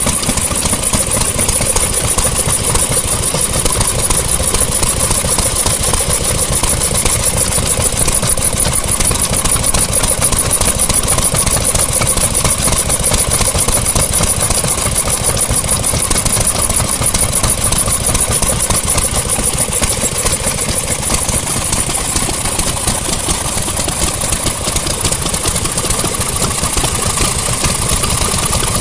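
Vintage engines running steadily, a fast even beat with a constant high-pitched whine above it.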